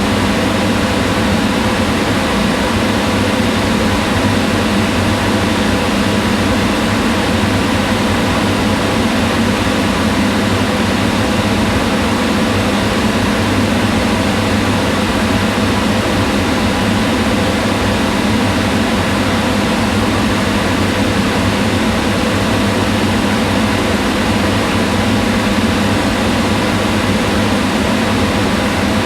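Kitchen range hood fan running steadily: an even, unchanging whir of rushing air with a faint low hum.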